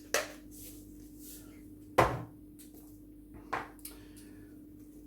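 Three sharp knocks of things being handled on a table, the middle one the loudest, over a faint steady hum.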